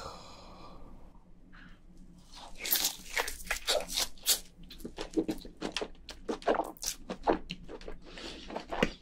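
A person biting into and chewing a big mouthful of giant crayfish tail meat dipped in chili sauce, close-miked mouth sounds. The chewing starts a couple of seconds in as a quick run of short strokes, about three a second.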